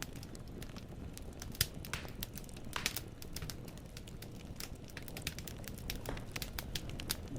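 Wood fire burning in a fireplace, the logs crackling with irregular sharp pops and snaps over a low steady rumble of the flames.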